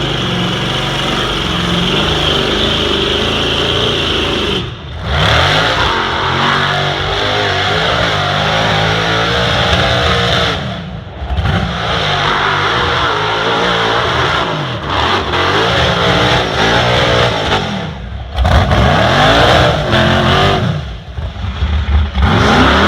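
Off-road truck engine revving hard over and over, its pitch climbing and falling as the throttle is worked, with the revs dropping off briefly several times before it pulls again.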